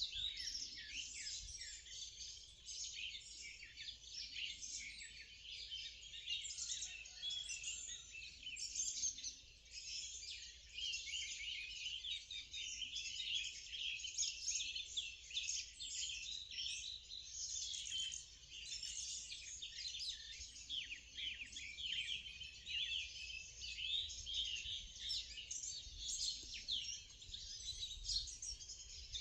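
Morning birdsong: many small birds chirping and trilling at once in a dense, unbroken chorus.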